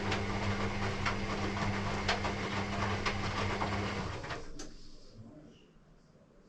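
Electrolux EW6S404WU washing machine running a motor with a steady low hum and a scatter of small clicks, which stops about four seconds in and is followed by a single click.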